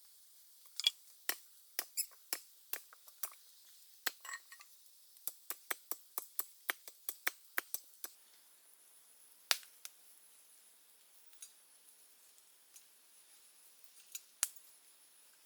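A series of sharp taps, scattered at first, then a quick even run of about two to three a second for a few seconds, then only a few more, over a faint steady high hiss.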